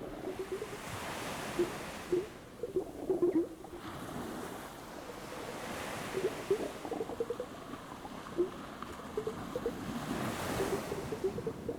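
Ocean waves surging up a beach and washing back three times, with bubbling and fizzing water in the shallows.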